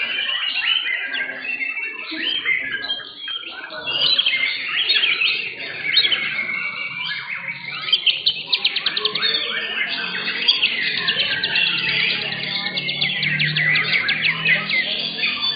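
Several white-rumped shamas (murai batu) singing at once: a dense tangle of whistles, chirps and trills, with a run of fast repeated notes about eight seconds in.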